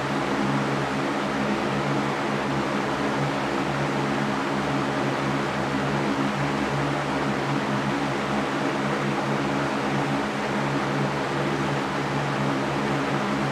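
Electric fan running steadily: an even rush of air with a low motor hum.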